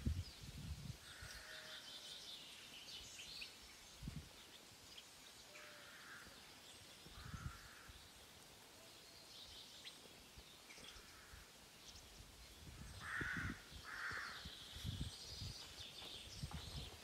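Birds calling outdoors: a series of short calls a few seconds apart, with two close together near the end, over fainter high chirping. Now and then low gusts of wind buffet the microphone.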